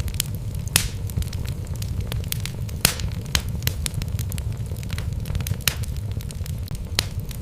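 Wood fire burning in a fireplace, logs crackling with irregular sharp pops over a steady low rumble of the flames; a few louder pops stand out, one about three seconds in.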